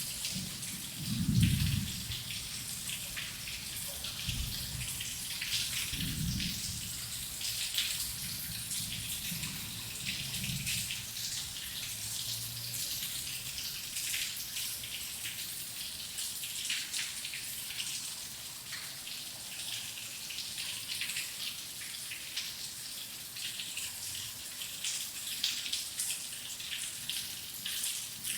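Steady rain with a dense patter of drops. A low roll of thunder peaks about a second and a half in, rumbles on more faintly and dies away by about ten seconds.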